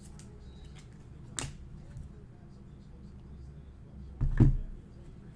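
Handling noises of trading cards and packs on a table: a short sharp snap about a second and a half in, a faint tick, then a louder dull thump a little after four seconds.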